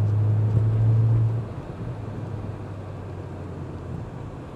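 Engine and road noise of a BMW 335i with its twin-turbo inline-six, heard from inside the cabin while driving: a steady low drone that falls away sharply about one and a half seconds in, leaving a quieter rumble.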